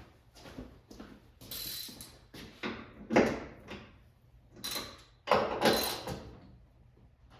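Trunk lid bolts being tightened with a wrench: bursts of metallic scraping and clicking, the loudest about three seconds in and again around five to six seconds in.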